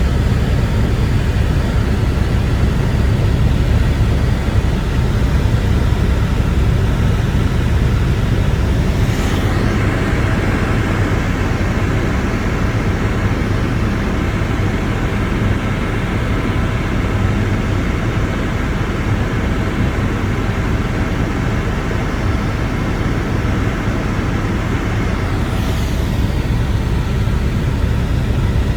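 Helicopter engine and rotor noise heard from on board in flight: a loud, steady, deep drone with a few constant tones in it.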